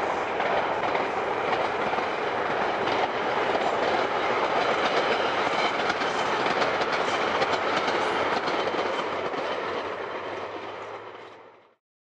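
Class 483 electric multiple unit, the former London Underground 1938 tube stock, running along the line: a steady rolling noise with rapid clicks of the wheels over rail joints, fading out near the end.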